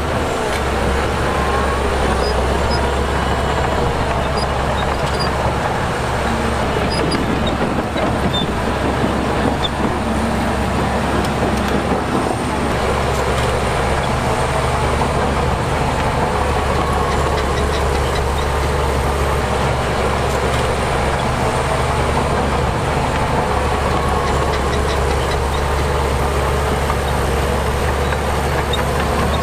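Heavy diesel earthmoving machinery running steadily, with a strong deep engine rumble.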